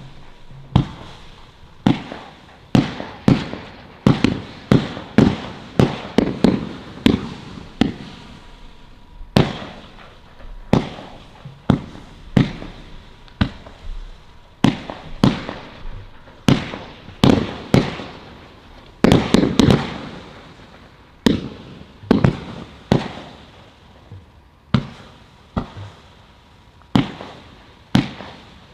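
Large display firework cakes firing in quick succession: a continuous run of sharp bangs, about one to two a second, each ringing out briefly, with crackling between the shots.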